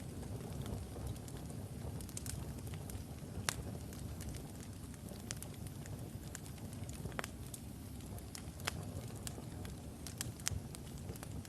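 Wood fire of burning logs in a fireplace: a steady low rumble of flames with irregular sharp crackles and pops scattered throughout.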